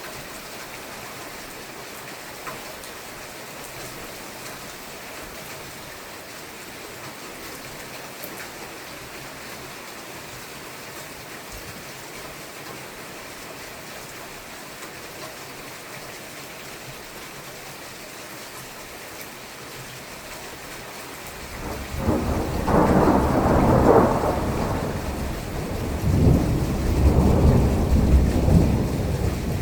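Steady rain falling, then about 21 seconds in a loud clap of thunder breaks out and rolls in two big swells of rumbling a few seconds apart.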